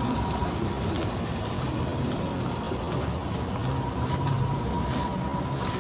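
Steady road traffic noise: vehicle engines and tyres running, with no single distinct event.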